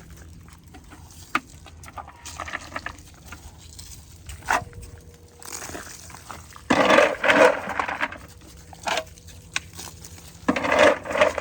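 Raindrops ticking irregularly on a steel stock trailer. Two loud noisy bursts come about seven seconds in and again near the end.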